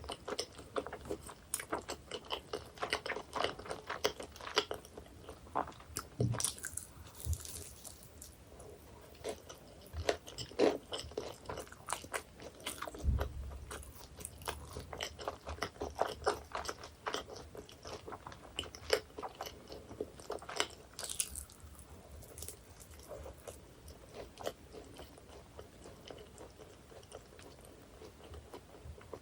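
Close-miked eating of flaky pie pastry: crisp crunching and chewing, dense little crackles with a few sharper bites now and then.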